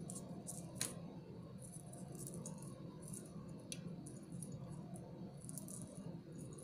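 Small beads and metal beading tools handled close up, giving scattered light rattling clicks, with two sharper clicks about a second in and near four seconds. A steady low hum runs underneath.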